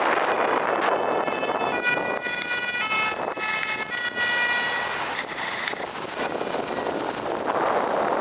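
Two-tone siren of a Paris fire brigade vehicle, stepping between two pitches about once a second, heard over steady traffic and wind noise; the siren stands out for a few seconds in the middle and then sinks into the noise.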